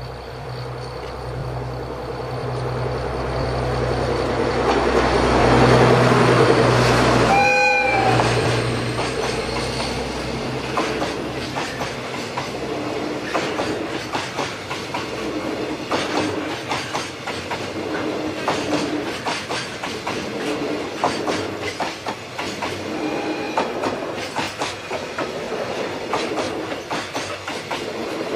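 Diesel locomotive hauling a freight train passes close by, its engine rumbling louder as it approaches, with a short horn blast as it goes by. Then the freight wagons roll past with a steady clickety-clack of wheels over the rail joints.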